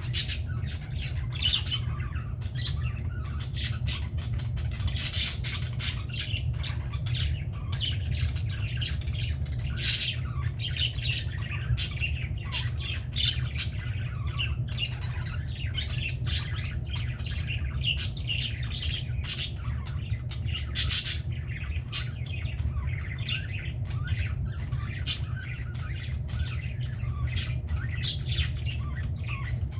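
A flock of budgerigars chattering, with many short squawks and chirps following one another without pause, over a steady low hum.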